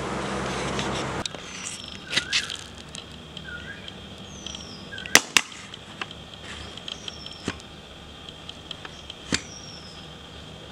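Small birds calling: a thin high whistle sliding down, repeated every two to three seconds, and a few sharp, loud chip notes. A steady rushing noise cuts off about a second in.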